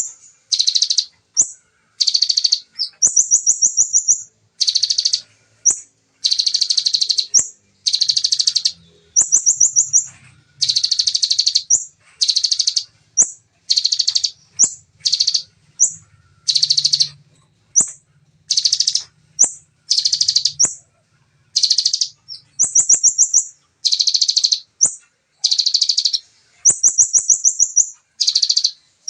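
Bar-winged prinia (ciblek) singing in fast, dense bursts of high trills. Each burst lasts under a second and is repeated with short pauses: the rapid 'tembakan' (shooting) song.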